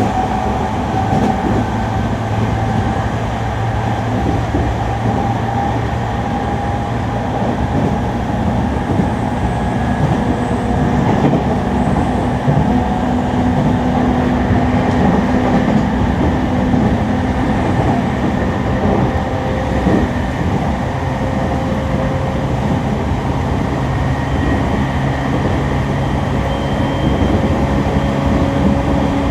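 E231-series electric train running, heard from inside the car: a loud traction-motor and inverter hum and whine in several steady tones over the rumble of wheels on rail. The tones drift slowly in pitch, one stepping up near the end.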